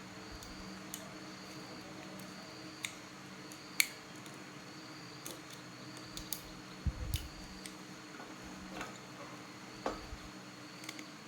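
Scattered light clicks and taps, a dozen or so at irregular intervals with a sharper one about four seconds in, over a steady low hum.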